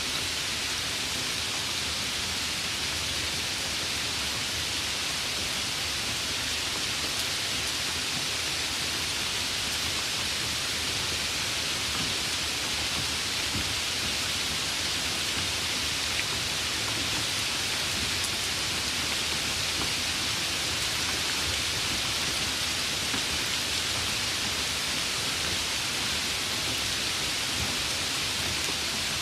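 Steady, continuous rainfall: an even hiss of rain with no distinct drops or thunderclaps standing out.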